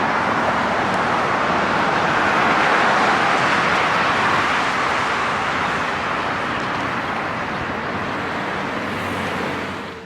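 A loud, steady rushing noise with no clear tone. It swells over the first three seconds, then slowly eases, and it starts and stops abruptly.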